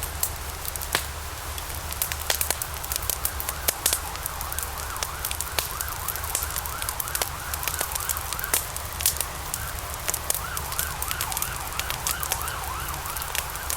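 Wood fire burning in a fireplace, crackling and popping with many sharp snaps over a steady low rumble. A faint wavering whistle rises and falls a few times a second through most of the middle, coming and going.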